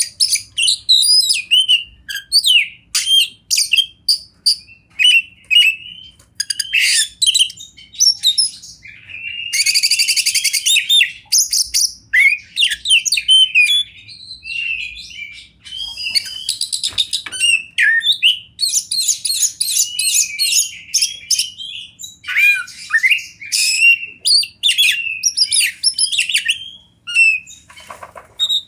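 Oriental magpie-robin singing loudly: a long, varied run of whistled phrases broken by quick, harsh chattering rattles.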